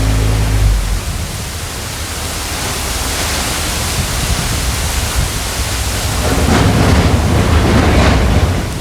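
Steady rushing roar of a waterfall in heavy flow after prolonged rain, with deeper low rumbling swelling near the start and again from about six to eight and a half seconds in.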